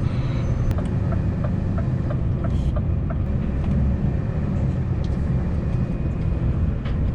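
Scania V8 truck engine running steadily while driving, a deep even rumble, with a light regular ticking of about two a second in the first few seconds.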